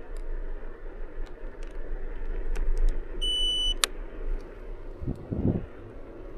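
A small electric vehicle is riding along with a steady low hum of motor and tyres. About halfway through there is one short, high-pitched electronic beep, then a sharp click.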